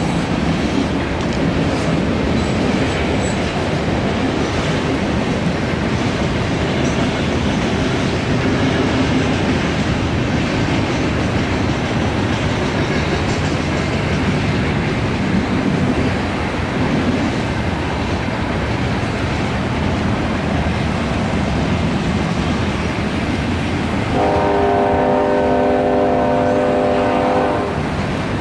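Loaded coal train cars rolling steadily past, a continuous rumble and clatter of steel wheels on the rails. About 24 seconds in, a chime-like horn chord sounds for about three and a half seconds.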